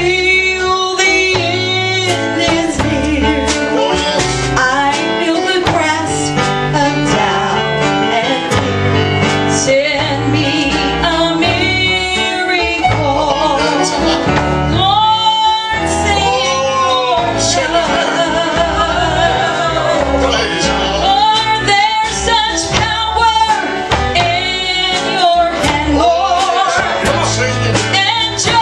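Gospel duet sung by a man and a woman over country-style instrumental backing with guitar and a steady bass line, the voices held in long wavering notes.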